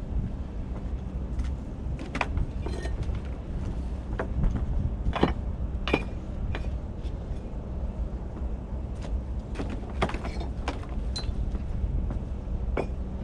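Bricks being set on bricks as a fireplace mantel shelf is dry-laid: scattered short knocks and clinks every second or two over a steady low hum.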